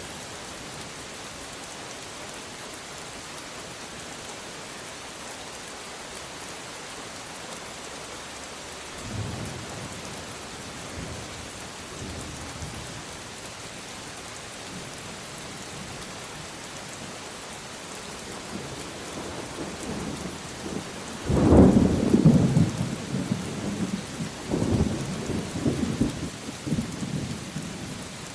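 Steady rain falling, with a soft rumble of thunder about nine seconds in. A loud thunderclap comes about twenty-one seconds in and rolls on in waves almost to the end.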